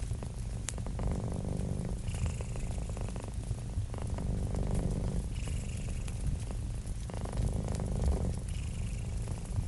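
Cat purring in a steady low rumble that swells and eases with each breath, about every three seconds, over the scattered sharp crackles of a wood fire.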